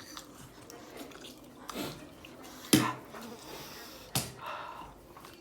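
People eating fiery spicy noodles: a few short knocks and clicks of utensils and bowls, with breathy sniffs and puffs of breath from the heat.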